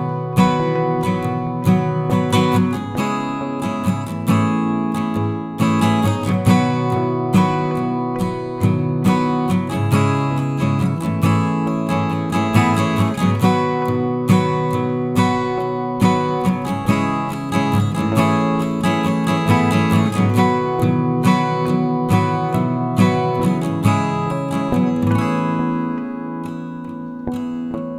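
Background music: acoustic guitar strumming chords, growing a little softer near the end.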